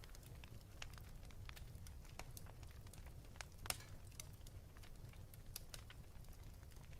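Wood fire crackling in a fireplace: scattered sharp pops and snaps over a low steady rumble, the loudest pop a little past halfway.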